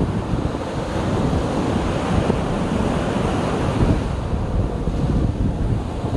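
Sea waves washing and breaking, with wind buffeting the microphone in low gusty rumbles.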